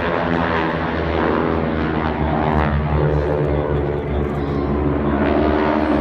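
Propeller airplane flying overhead, its engine drone steady and loud with many layered tones.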